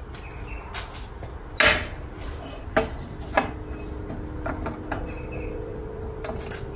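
Metal tools and parts being handled: a string of sharp metallic clanks and clinks, the loudest about one and a half seconds in. A faint steady hum sets in about halfway through.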